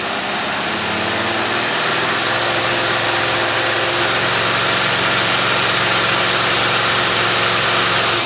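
Test engine running on a Motorcraft 4300 four-barrel carburetor with the dyno loading it, held at a steady high speed with a strong high hiss. The sound builds slightly over the first two seconds and then holds, until the engine cuts off suddenly at the very end.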